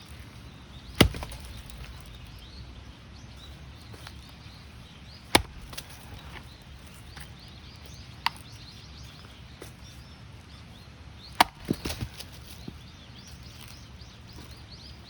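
Axe chopping firewood: three heavy blows about 1, 5 and 11 seconds in, the last followed by a quick run of smaller knocks, with a lighter sharp click between them. The wood is a knotty lump that won't split.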